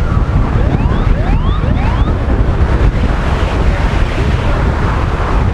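Strong wind buffeting the microphone over rushing water. About half a second to two seconds in, a handful of short rising squeaks.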